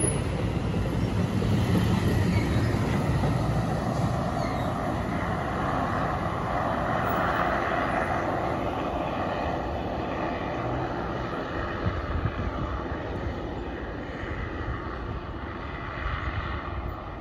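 NJ Transit multilevel passenger train, pulled by a PL42AC diesel locomotive, rolling away along the track. It makes a steady rumble of wheels on rail that slowly fades as the train recedes.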